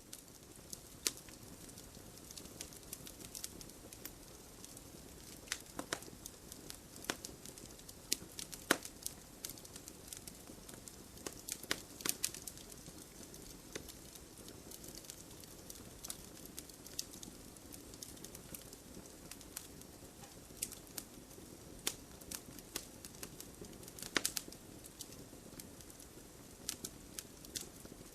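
Wood fire burning in a fireplace: a steady soft hiss with frequent, irregular sharp pops and snaps from the logs.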